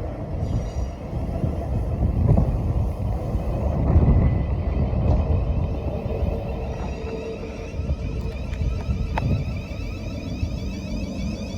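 A passenger train running through the station, with a steady heavy rumble of wheels on rail that is loudest about four seconds in. A faint high whine comes in after the middle.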